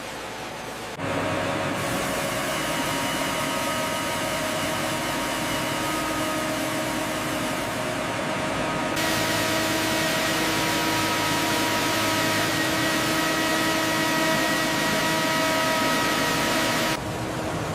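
Steady hum and whir of industrial machinery running, with several steady tones over a noisy drone. The sound changes suddenly about a second in, again about halfway through and near the end.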